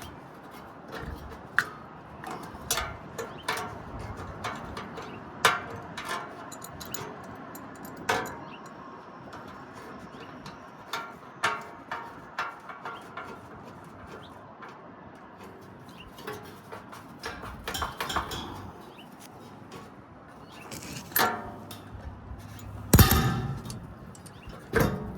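Metal clinks, knocks and scraping as an adjustable wrench turns a condenser fan motor's shaft and the fan blade hub is worked loose and pried up off the rusted shaft, with a couple of louder clanks near the end.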